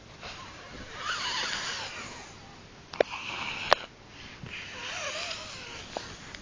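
A baby making breathy animal-imitation noises in three bursts of about a second each, with two sharp clicks in the middle.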